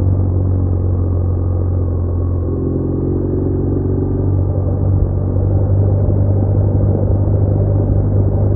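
BMW R1200R's boxer-twin engine running steadily while riding at road speed, with a brief rising tone about two and a half seconds in as the revs climb.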